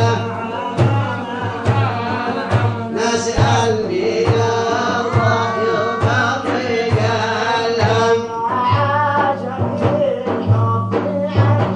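A male voice singing a Sufi devotional song (inshad) over a steady drum beat that falls a little more than once a second.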